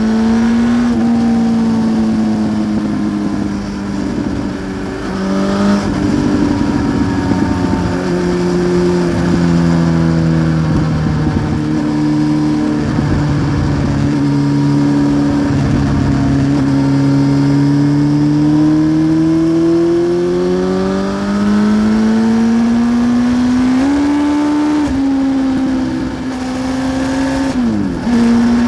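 Honda CBR900RR SC28 Fireblade's inline-four engine running through a Remus exhaust while riding. The engine note sinks slowly, then climbs steadily under throttle, with a step and a quick sharp dip and recovery in pitch near the end.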